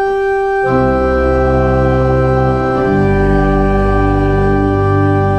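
Church organ playing sustained chords. A single held note is joined about a second in by a full chord with deep pedal bass, and the harmony moves to a new chord about three seconds in.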